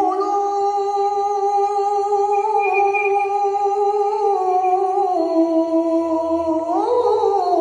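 A single voice chanting an Arabic devotional suluk a cappella, holding one long ornamented note. It wavers gently through small melodic turns and swells up in pitch near the end.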